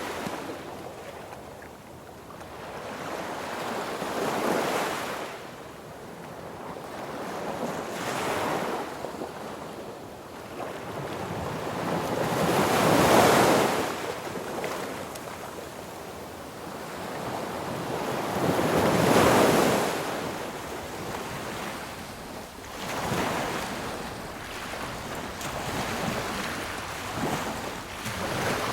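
Sea waves breaking and washing up on a beach, each wave swelling and fading over a few seconds; two larger waves break about halfway through and again about two-thirds of the way in.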